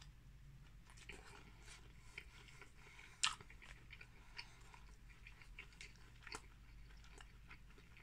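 A man chewing a mouthful of chili dog, a bite of mostly sausage in a soft bun: faint wet mouth sounds and small clicks, with one louder click about three seconds in.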